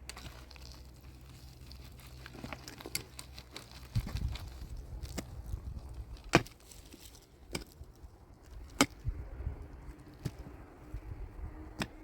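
Irregular sharp knocks and clicks, with three louder ones about six, nine and twelve seconds in, over a low rumble.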